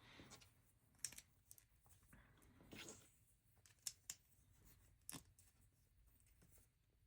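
Faint handling of plastic LEGO pieces: a few sharp clicks as bricks are picked up and pressed together, with soft rustling in between.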